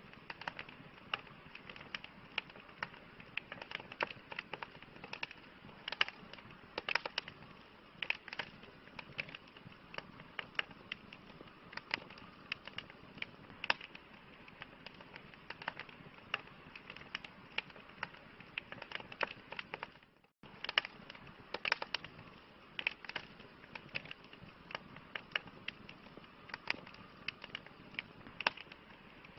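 Campfire of burning wood crackling: a soft steady hiss with irregular sharp pops and snaps, several a second. The sound cuts out for a split second about two-thirds of the way through.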